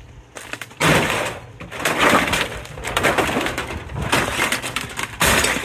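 Parts of a flat-screen TV being pried and broken apart, with several loud crunching, cracking bursts about a second apart.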